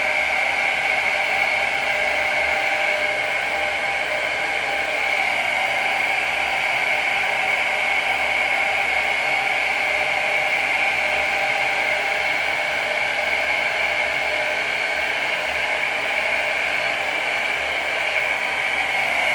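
Handheld hair dryer blowing steadily with a high whine, drying Got2b spray.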